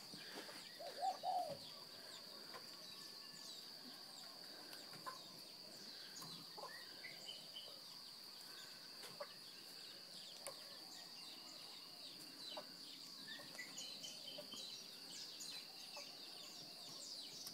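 Scattered bird chirps and calls over a steady high-pitched whine, with one short louder call about a second in.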